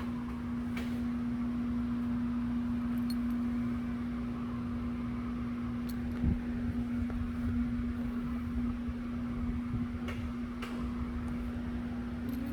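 A steady mechanical hum with a low rumble beneath it and a few faint clicks.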